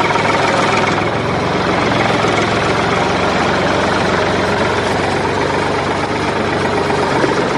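An engine running steadily, with an even low hum and no change in speed.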